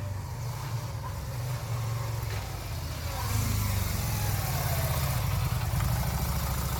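Motorcycle engine idling with a steady low rumble, a little louder from about three seconds in.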